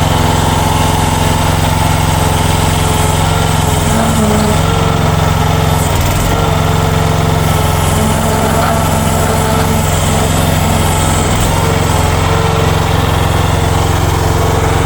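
Small engine of a compact mini excavator running steadily while the machine is worked onto a trailer.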